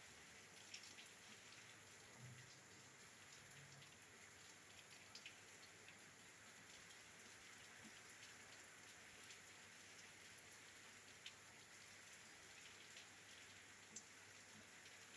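Faint, steady rain at a window: an even patter with scattered sharper drop ticks, a few of them standing out.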